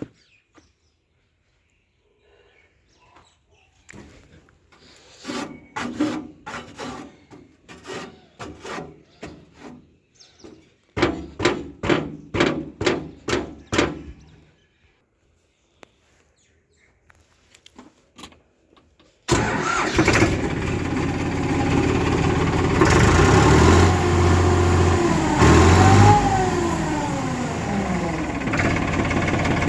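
Tractor diesel engine being started: a run of rhythmic chugging pulses while it is cranked, then after a short pause it catches and runs loudly, revving up and down a few times.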